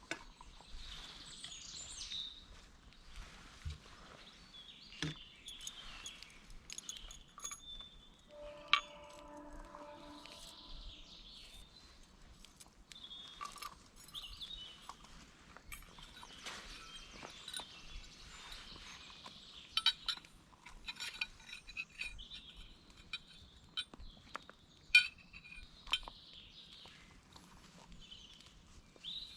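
Light metal clinks and knocks from handled camp gear, one ringing briefly with a clear tone about nine seconds in, with birds calling in the background.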